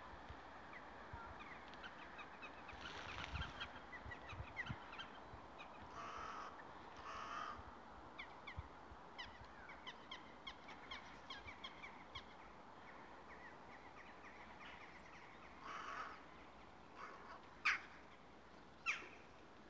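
Birds calling outdoors: several short, harsh calls, the two loudest near the end, over a scatter of faint chirps.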